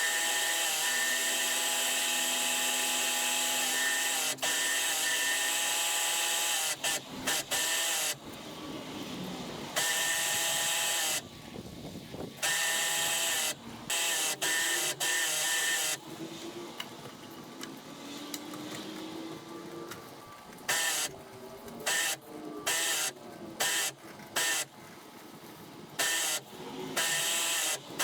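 A spray rig's pump running with the hiss of water spraying from the wand, steady at first; from about eight seconds in the spray cuts on and off sharply many times in short bursts.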